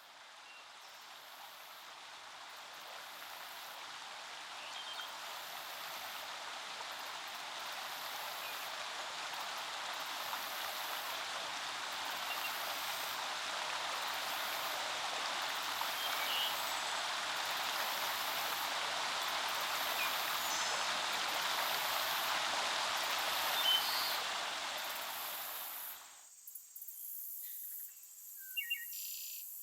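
Forest stream flowing, a steady rush of water that slowly grows louder, then cuts off abruptly near the end. A few faint short chirps follow.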